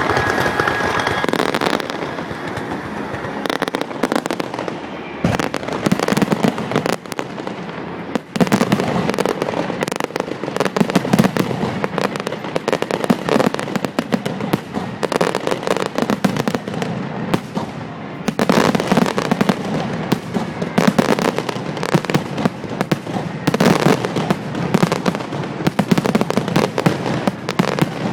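Fireworks display: a dense, continuous barrage of bangs and crackling, dipping briefly about eight seconds in before building again.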